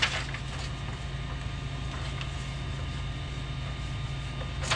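Steady low mechanical hum, with a sharp click at the start and another near the end.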